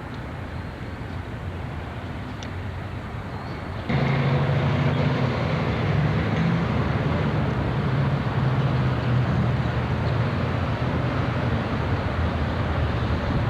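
A vehicle engine running steadily nearby, over background traffic noise. It becomes suddenly louder about four seconds in, with a low hum.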